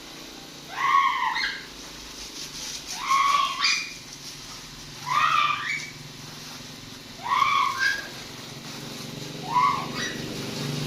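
A cat meowing repeatedly: five meows about two seconds apart, each rising in pitch at its end.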